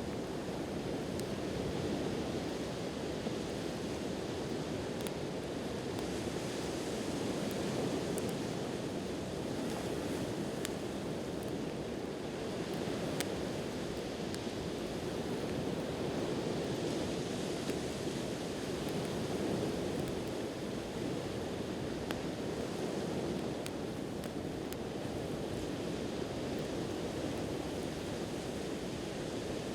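Surf washing on a shore in slow swells, with a wood campfire crackling: scattered small sharp pops and snaps over the wave noise.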